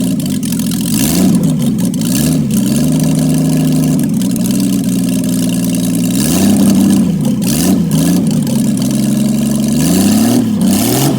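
Jaguar 2.4 litre XK straight-six engine running for the first time in many years, blipped up in short revs in three bunches and dropping back to a steady idle between them.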